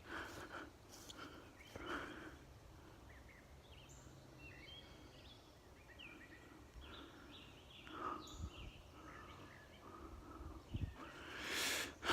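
Small birds chirping, many short high calls through the middle. Footsteps sound every few seconds, the loudest near the end.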